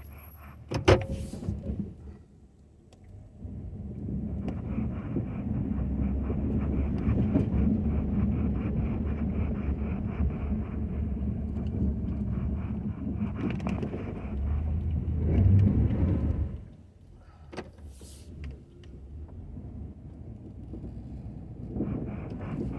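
Ford F-250 pickup with a snow plow running: a steady low rumble that swells, then drops off suddenly after about twelve seconds. A sharp knock about a second in and a short click near the end.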